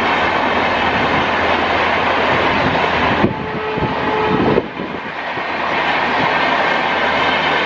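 A train passing at speed close by: a loud, steady rush and rattle of wheels and coaches on the track. About three seconds in, the sound briefly shifts and thins for a second or so, with a faint steady tone, then the full rush returns.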